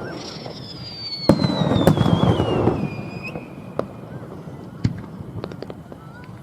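Aerial fireworks bursting: a sharp bang about a second in and another just after, each trailing off in a rumbling crackle. A high whistle slides down in pitch over the first three seconds, and scattered smaller pops follow.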